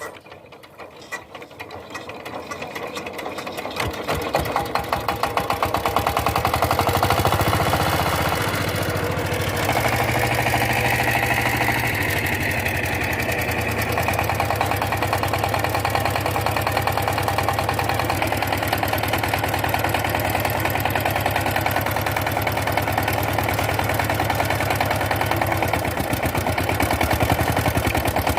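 A power tiller's diesel engine starting and picking up speed over the first few seconds, then running steadily with a rapid knocking beat.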